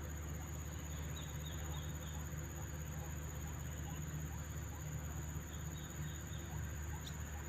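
Faint, short high chirps of small birds hunting insects on the wing, in two brief clusters, over a steady low hum and a steady high-pitched whine.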